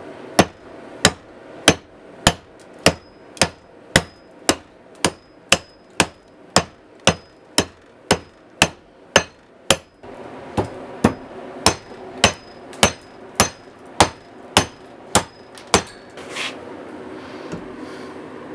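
Steady hammer blows, about two a second, each a sharp strike with a faint metallic ring, in two runs with a short pause about ten seconds in. These are the blows of hanging a new handle on an old hatchet head.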